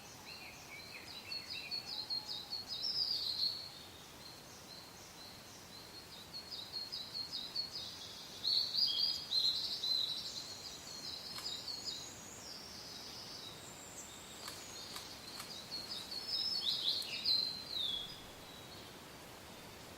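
Songbirds singing in three runs of rapid, high chirping notes, the middle one the loudest, over a steady soft wind hiss.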